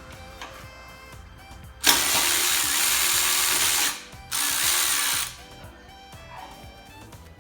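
A power tool runs in two bursts, the first about two seconds long and the second about one second, over background music.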